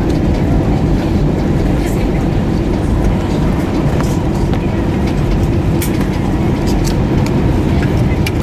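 Cabin noise of an Airbus A320 rolling on the ground after landing: a steady low rumble with scattered clicks and rattles from the cabin fittings.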